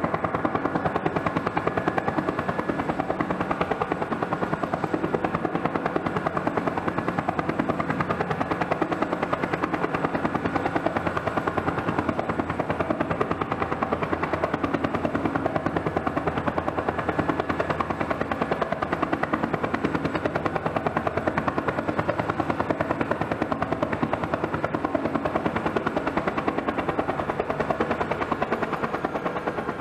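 Bell turbine helicopter running on the ground with its main rotor turning: a fast, even rotor beat under a steady turbine whine.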